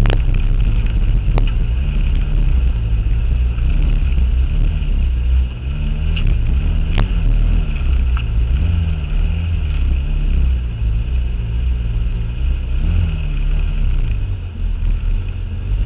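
Toyota AE86's engine running and revving up and down over and over under a heavy low rumble, heard from low beside the front tyre. A single sharp click about seven seconds in.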